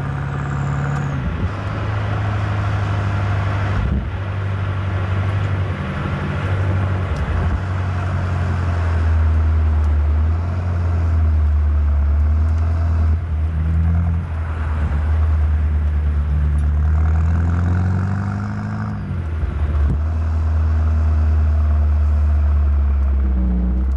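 BMW M8 Competition's twin-turbo V8 running at low revs while driving, a deep steady drone whose pitch steps up and down several times, with a slow rise and a sudden drop near the end.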